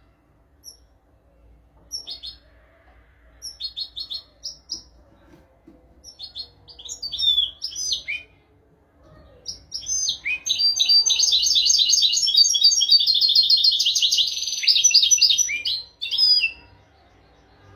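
European goldfinch singing: scattered short twittering notes through the first half, then about ten seconds in a fast, unbroken trilling run lasting some six seconds, the loudest part, which stops abruptly.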